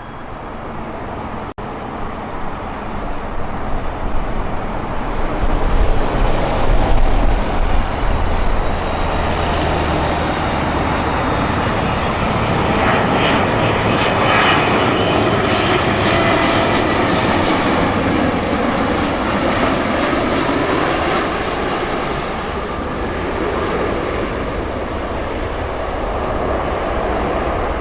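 Loud, steady engine noise with a rushing sound that builds over the first several seconds and then holds, with no siren.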